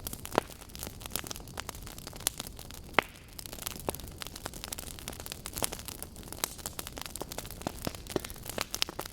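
Burning logs crackling, with a steady low rush of flame and frequent small snaps, two of them louder pops about half a second in and about three seconds in.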